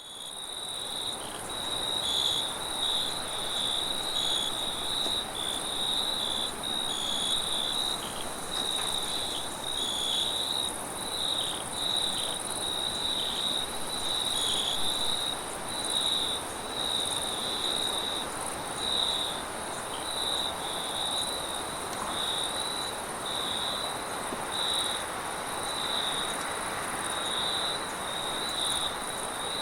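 Crickets chirping in a dense chorus, pulsing rapidly around a high pitch, over a steady, even higher insect trill. A soft rushing wind runs underneath.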